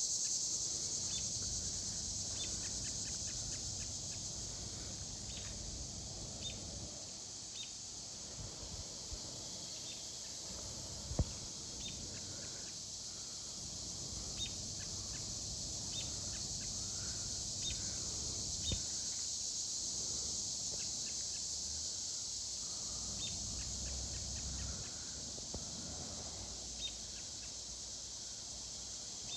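Steady high-pitched drone of cicadas, with short bird chirps scattered through it and a low rumble of wind on the microphone. A sharp click comes about eleven seconds in.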